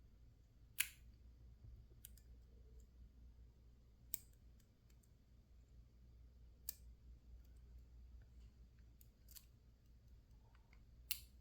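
Small sharp metallic clicks of a lock pick working the pins of a PacLock 410 Pro padlock under light tension: about five clearer clicks a few seconds apart, with fainter ticks between, over near silence.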